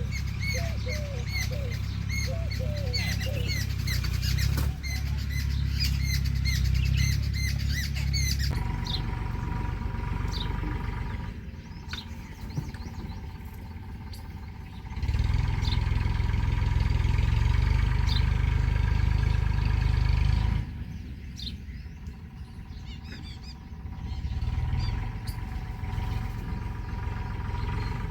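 Small birds chirping, a quick repeated chirp about three times a second for the first eight seconds or so, then only scattered chirps. Underneath run a steady hum and a low rumble that swells and fades, loudest in the middle stretch.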